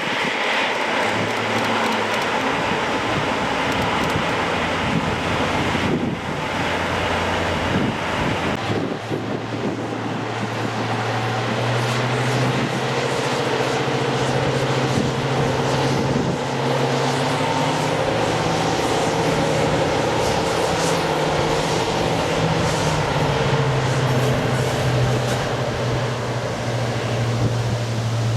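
British Rail Class 47 diesel locomotive 47292 working under power as it pulls away, its Sulzer V12 diesel engine giving a steady note that rises a little about twelve seconds in and then holds.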